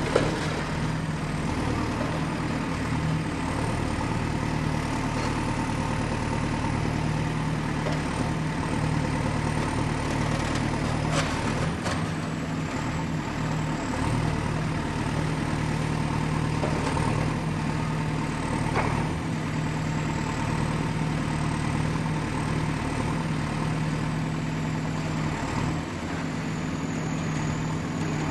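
Excavator's diesel engine running steadily with a deep hum, a faint high whine that wavers in pitch, and a couple of sharp knocks partway through.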